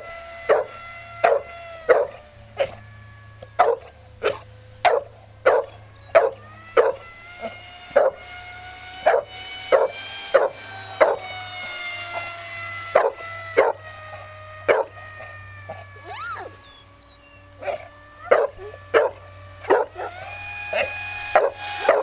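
A dog barking over and over, about one to two barks a second, with a short pause about three-quarters of the way through. Under the barks is the steady whine of a modified Dynam Hawk Sky RC plane's Grayson Hobby Monsterjet 2400kv brushless motor and propeller on a 3S lipo, drifting in pitch as the plane flies by.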